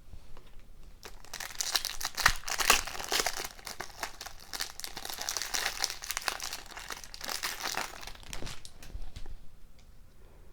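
Wrapper of a 2020-21 OPC Platinum hockey card pack being torn open and crinkled: a dense crackling rustle from about a second in until near the end, then only a few faint ticks.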